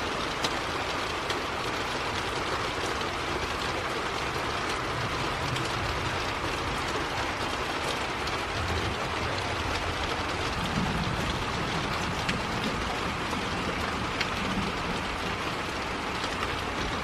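Heavy rain falling steadily, an even rushing hiss with a few sharper drop taps close by.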